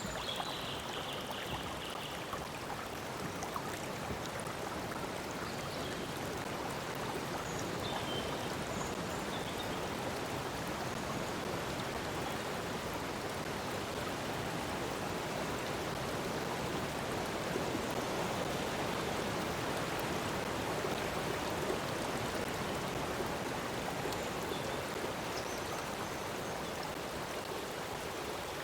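A stream of water flowing steadily over rocks, a continuous rushing and burbling, with a few brief faint high chirps from birds now and then.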